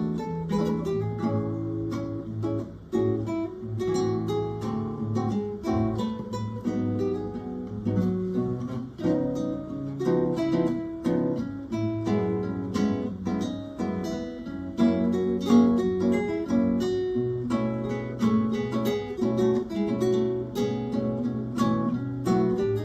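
Acoustic guitar music, plucked notes and strummed chords playing continuously without singing.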